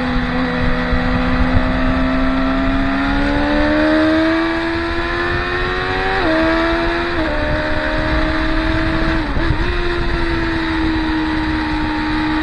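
Motorcycle engine at track speed, its pitch climbing steadily then stepping down sharply twice, about six and seven seconds in, as it shifts up, before running on at a steady pitch.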